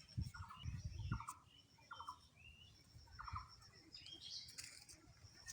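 A bird calling over and over in short, rattling notes, about one call a second, with a few low thumps in the first second and a half.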